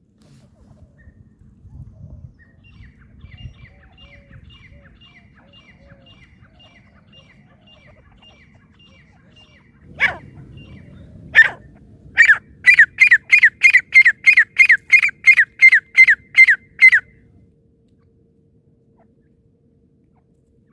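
Francolin (teetar) calling: a faint run of short, high, falling notes, then after two sharp knocks a loud series of about a dozen quick falling notes, roughly three a second, that stops suddenly.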